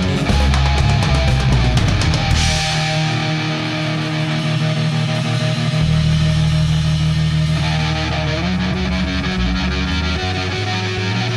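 Rock music with electric guitar and bass. Drum hits stop about two seconds in, leaving held guitar chords ringing.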